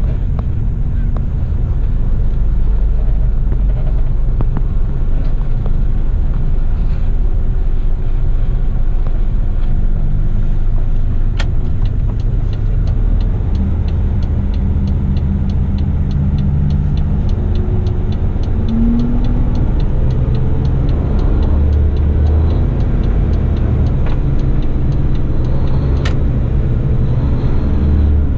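A heavy eight-wheeler twin-steer rigid truck's engine running steadily under way, with road noise. The engine note shifts in pitch from time to time, and a fast run of even ticks comes in for several seconds in the middle.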